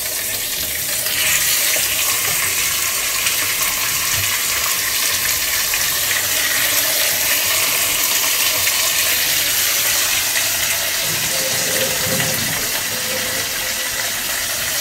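Steady sizzling hiss of chopped onions frying in oil in a wok, growing a little louder about a second in as raw diced chicken goes into the hot oil.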